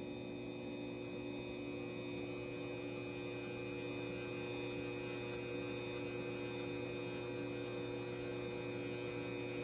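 XW Pro hybrid inverter humming steadily with its grid input switched on, a buzzing electrical hum made of several steady tones. The noise comes with the grid connection being enabled.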